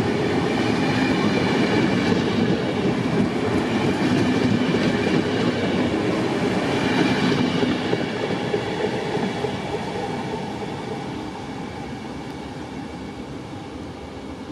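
Trenitalia regional passenger train running through a station at speed: a steady rolling rumble with wheel clatter over the rails as the last coaches go by. After about eight seconds it fades gradually as the train draws away.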